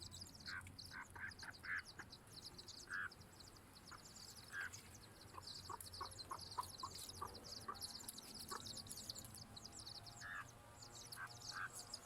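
Ducks quacking in short, scattered calls, with a quicker run of quacks midway, over a constant high-pitched chirping.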